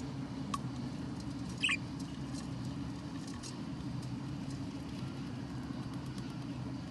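Budgerigar chicks giving two short squeaky cheeps, a faint one about half a second in and a louder one about a second and a half in, over a steady low hum.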